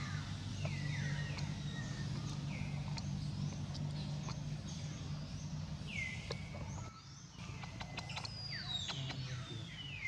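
Wild birds calling over and over, each call a downward-sliding whistle that levels off into a short held note. A steady low hum runs underneath until about seven seconds in, and a few sharp clicks come near the end.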